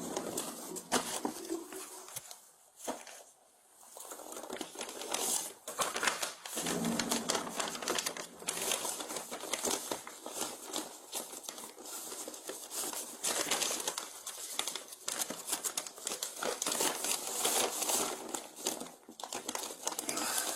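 Paper crinkling and rustling as it is handled, a dense crackle of small clicks, with a lull about three seconds in.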